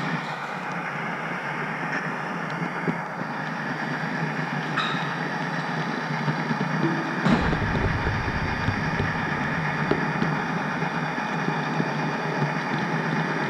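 HO scale model train rolling along its track, a steady running noise with a few sharp clicks from the wheels on the rails. A brief low rumble comes about seven seconds in.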